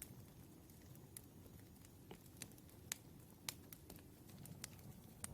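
Faint crackling of a wood fire: irregular sharp snaps and pops over a low steady rumble.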